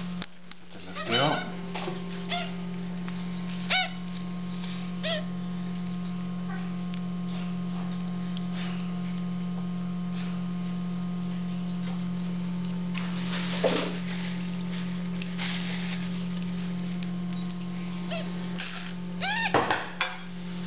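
African grey parrot chicks giving short, sharply rising begging calls, scattered through with a cluster near the end, over a steady low hum.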